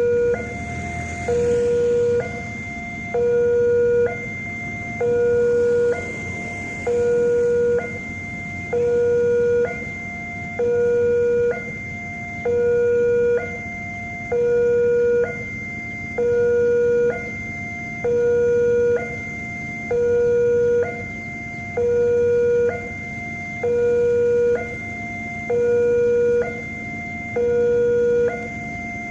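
Railway level-crossing electronic warning alarm sounding steadily, alternating between a louder low tone and a higher tone, each held about a second, over a faint steady hum.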